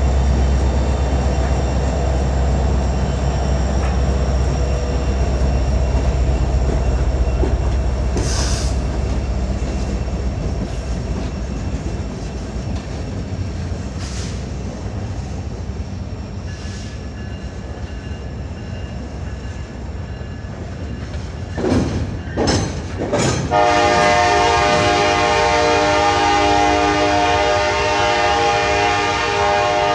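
CN freight train passing: the deep rumble of its diesel locomotives for the first several seconds, then the rail cars rolling by. Near the end a few short bursts are followed by a locomotive air horn sounding one long blast, a chord of several tones.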